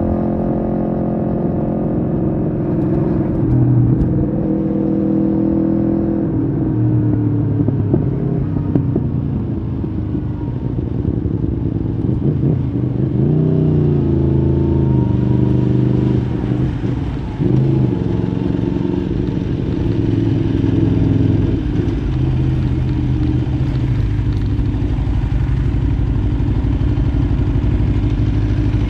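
Aprilia Tuono V4R's V4 engine on the move, revs falling over the first few seconds. It rises and drops several times in the middle as the throttle is opened and closed through the gears, then settles to a steady low-rev run near the end.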